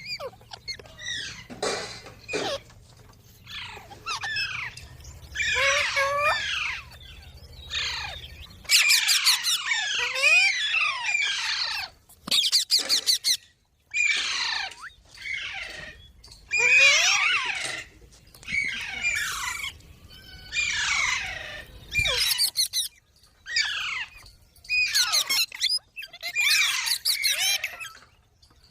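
Green parrot giving repeated harsh squawks and screeching chatter in quick bursts, with short pauses between them.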